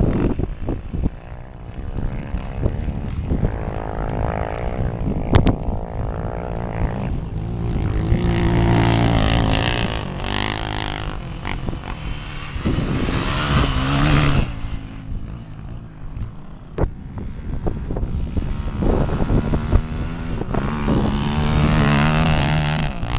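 Engines of 250 cc racing motorcycles or quads revving and shifting as machines go past one after another, rising and fading with each pass. The pass about a third of the way in is the loudest, with others after the middle and near the end.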